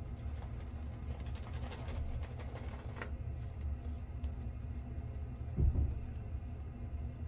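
Safety razor strokes rasping faintly across stubble during a shave, over a steady low hum, with a sharp click about three seconds in and a low thump a little past halfway.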